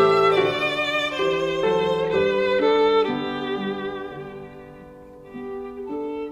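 Background music: a violin playing a slow melody with vibrato, with notes held underneath, fading down after about three seconds and picking up again near the end.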